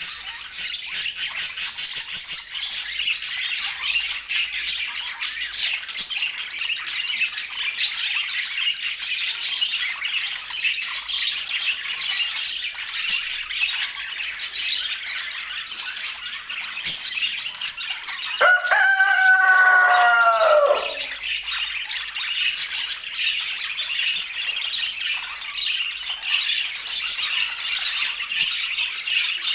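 A flock of budgerigars chattering with a dense, continuous mass of high chirps and warbles. About two-thirds of the way through, a louder, lower call, repeated several times over about two seconds, rises above the chatter.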